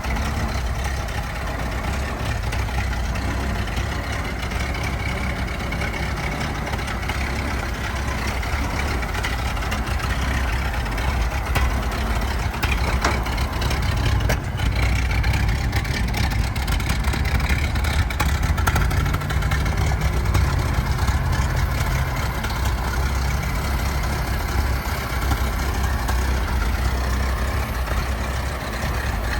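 1921 Ford Model T's four-cylinder engine running steadily, louder for several seconds in the middle.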